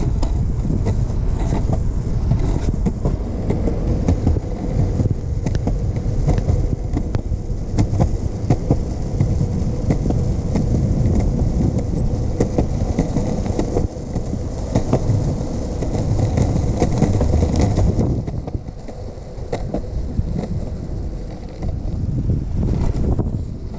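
Skateboard wheels rolling over pavement: a steady low rumble broken by many small clicks and knocks, easing off somewhat for the last few seconds.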